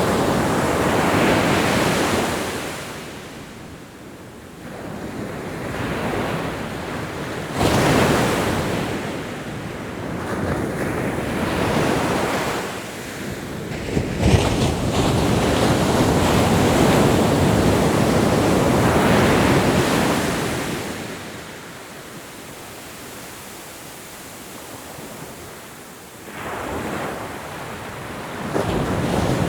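Ocean waves breaking and washing up the shore in repeated surges, each swelling and fading over several seconds, with a quieter lull about two-thirds of the way through before the next wave comes in.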